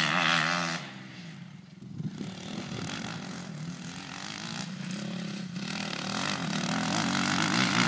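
Motocross bike engine running hard with a wavering pitch. The throttle comes off about a second in, then the engine builds back up steadily toward the end.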